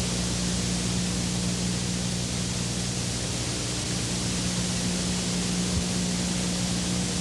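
Steady hiss with a constant low hum underneath, the background noise of an old video recording.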